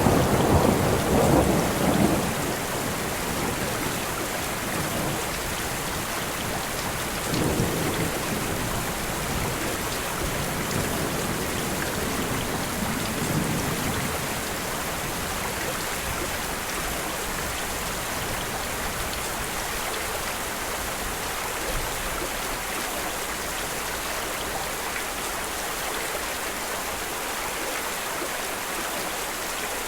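Steady rain falling, with a roll of thunder rumbling loudly at the start and fainter rumbles over the next several seconds, then rain alone.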